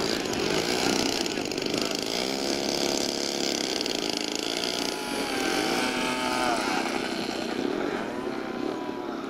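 Small RC model airplane engines running as the planes taxi, their pitch rising and falling several times as they rev up and throttle back.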